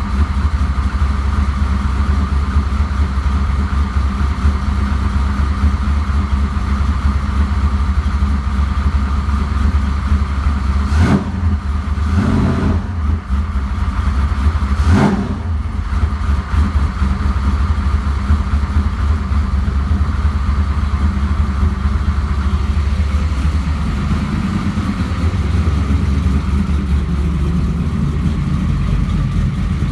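Car engine idling through a newly fitted exhaust with a MagnaFlow muffler, shortly after a cold start. A couple of short sharp sounds cut across it near the middle.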